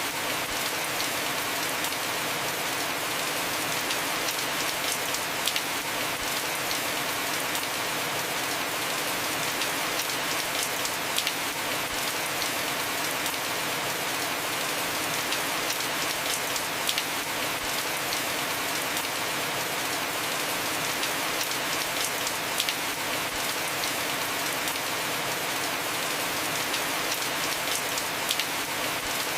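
Heavy rain falling steadily on a house roof, a constant hiss with many separate drop ticks scattered through it.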